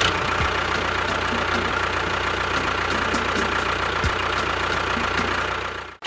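A motor running steadily and evenly, with a faint regular ticking.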